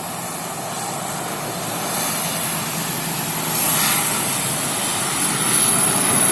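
Airliner engines running with a steady high-pitched turbine whine over a broad rushing noise, slowly getting louder.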